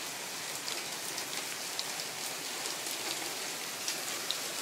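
Heavy rain pouring steadily, a dense hiss dotted with small sharp ticks.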